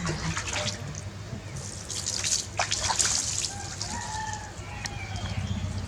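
Water splashing and dripping in irregular bursts, busiest in the middle, over a steady low hum.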